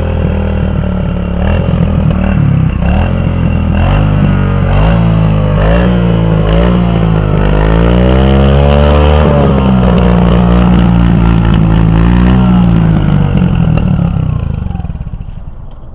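Kawasaki KLX110's small single-cylinder four-stroke engine running and being revved up and down several times with the throttle, then going quiet near the end.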